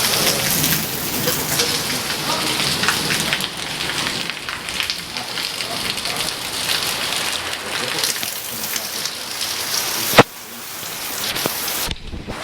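Heavy rain falling steadily, a dense even hiss of drops. About ten seconds in there is one sharp, loud knock, after which the rain sounds quieter.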